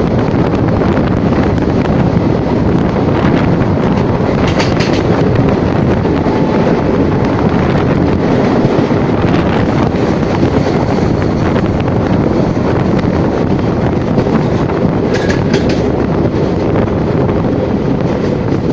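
Steady rumble of a moving train running along the tracks, with wind noise on the microphone.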